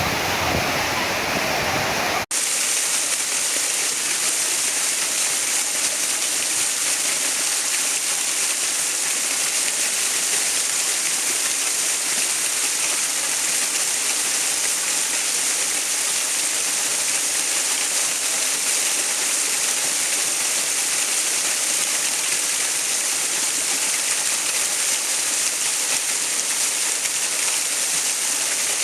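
Rushing water as a steady, even hiss. About two seconds in, the sound cuts abruptly, with a brief drop, to a thinner and higher hiss with almost no low rumble.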